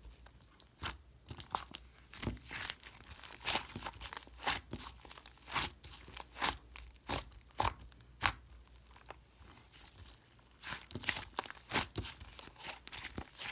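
Slime being squeezed and stretched by hand, giving a series of short, sharp crackles a few times a second, with a brief lull about nine seconds in before the crackling picks up again.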